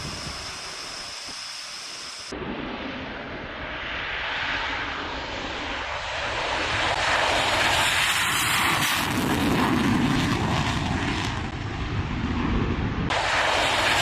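Twin RB199 turbofan engines of a Panavia Tornado jet, a broad rushing noise that grows louder over the first several seconds and then stays loud.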